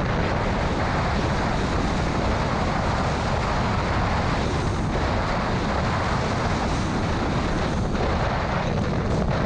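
Steady loud rush of a car driving through a severe thunderstorm: heavy rain and road noise.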